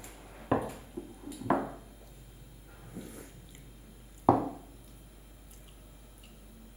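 A few dull knocks or thuds at uneven intervals, the loudest three about half a second in, about a second and a half in, and a little after four seconds, each fading quickly.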